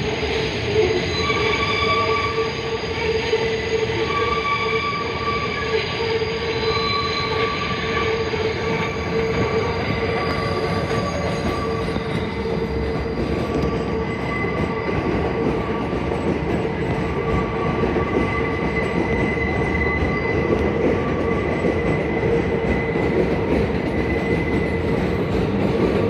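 Subway train running on steel rails, its wheels squealing with several steady high-pitched ringing tones over a constant rumble.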